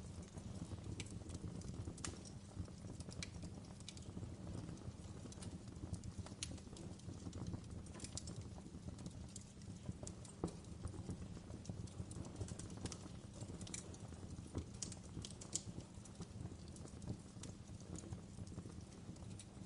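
Fireplace crackling: a steady low rumble of burning with irregular sharp pops and snaps.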